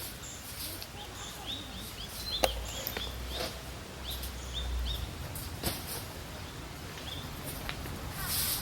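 Outdoor ambience with short, high bird chirps that come in quick little series. About two and a half seconds in, a sharp click is the loudest sound, and another click comes near six seconds.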